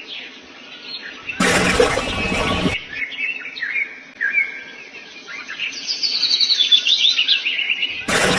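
Small birds chirping in quick, short calls that slide up and down in pitch. Two louder, noisy bursts of about a second and a half cut in, one a little over a second in and one near the end.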